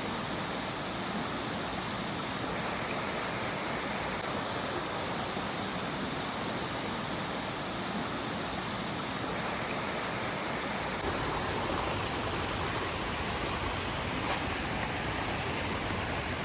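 Steady rushing noise, even from low to high, with a single sharp click about fourteen seconds in.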